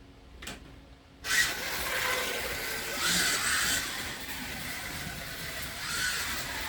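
A 1/24 scale slot car setting off and running on the track: after a single click, its electric motor's whine and the rattle of the car in the slot start abruptly just over a second in, swelling and easing as it laps, loudest about three seconds in.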